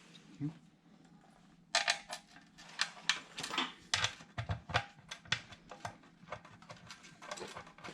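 Loose steel bolts and small hardware clinking and rattling as they are handled. A soft thump about half a second in, then from under two seconds in a quick, irregular run of sharp metallic clinks.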